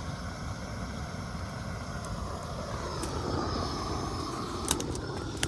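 Large brush fire of cedar trees burning with a steady low roar, with two sharp pops near the end.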